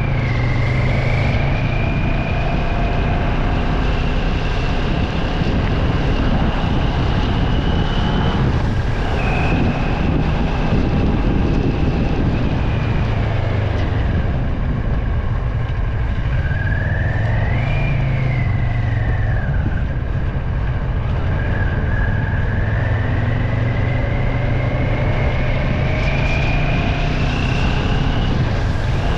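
Vehicle driving on a wet road: steady tyre hiss and engine noise. A high whine climbs slowly and drops back several times as the speed changes.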